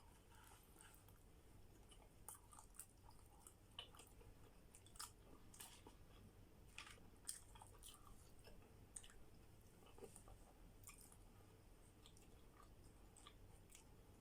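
Faint chewing of pizza, with soft, irregular crunches and wet mouth clicks from time to time.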